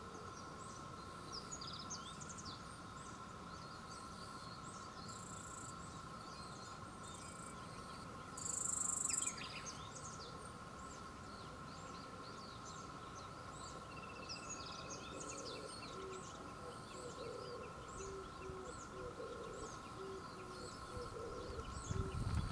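Outdoor ambience of many short, high bird chirps over a steady background hum. A loud hissing burst comes about eight seconds in, and a low rumble builds near the end.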